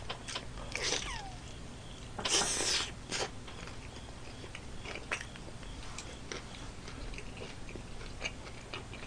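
Close-up chewing and biting of sauce-coated fried chicken: soft wet mouth clicks and smacks, with one louder, half-second burst of noise about two seconds in.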